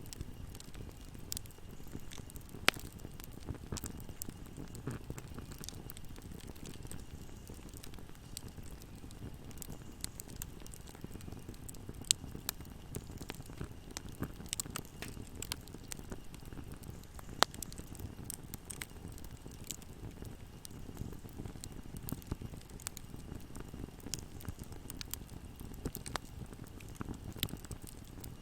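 Wood fire in a fireplace crackling: a steady low rumble of flames under a dense scatter of small pops and snaps, with a few much louder sharp pops.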